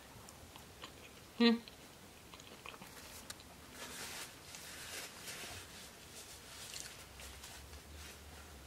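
Chewing a mouthful of crinkle-cut French fries. About a second and a half in there is one short, loud vocal sound.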